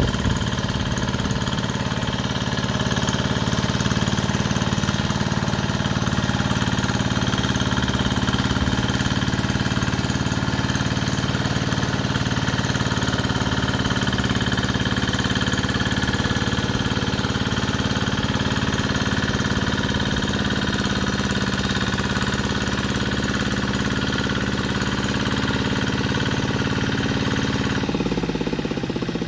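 Two-wheel hand tractor's engine running steadily as the machine works with steel mud wheels in a flooded paddy; near the end its note changes and it runs a little quieter.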